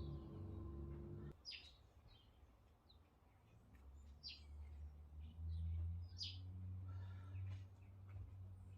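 Birds chirping repeatedly in short, sharp falling calls. Under them a low hum cuts off about a second in, and another low hum builds again midway.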